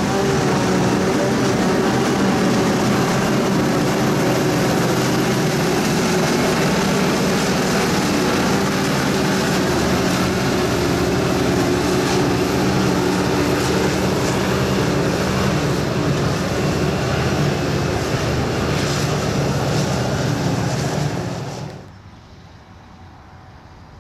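Silage-harvesting farm machinery running steadily under load, a diesel engine drone with machinery noise over it. Near the end it drops suddenly to a faint low rumble.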